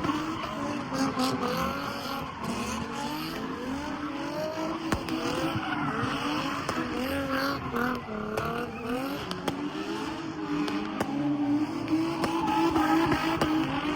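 A car doing a burnout: the engine is held at high, wavering revs while the tyres squeal and spin.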